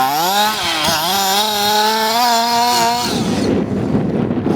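23cc Zenoah G230RC two-stroke engine of an FG Marder RC car revving up, then holding a steady high-pitched full-throttle note. About three seconds in the note drops away into a rougher, noisier sound.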